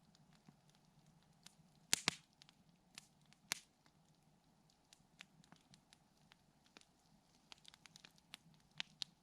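Wood campfire crackling: scattered sharp snaps and pops, the loudest a double snap about two seconds in, over a faint steady background.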